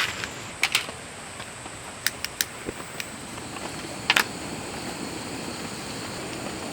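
Several sharp clicks and light knocks from objects being handled and set out, in small clusters, over a steady background hiss of rain.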